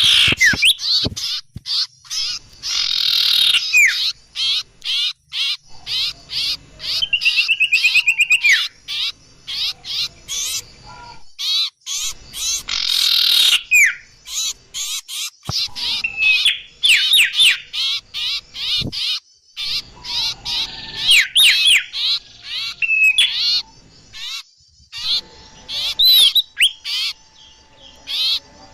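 Bird-lure (pikat) recording of small songbirds: a dense, unbroken tangle of rapid chirps, ticking notes, trills and short rising and falling whistles from several calls at once, used to draw wild birds in.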